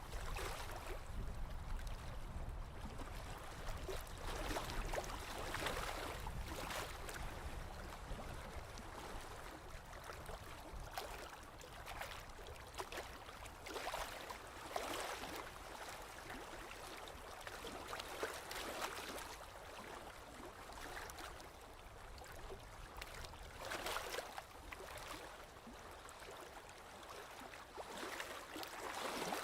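Small waves lapping against a lake shore: soft, irregular splashes every one to three seconds. A low rumble underneath fades out within the first several seconds.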